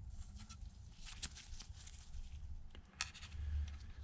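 Faint light clicks of small metal parts and tools being handled, twice, over a low steady hum.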